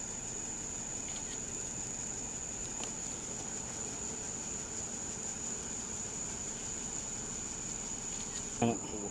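Insects trilling steadily and high-pitched over a low background hiss, with a brief, louder voice-like sound near the end.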